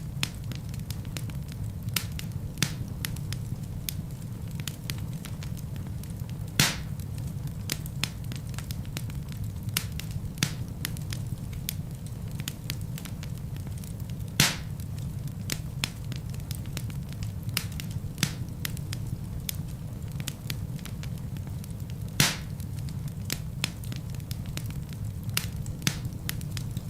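Wood fire burning in a fireplace: a steady low rumble of flames with frequent small crackles and three louder pops from the burning logs.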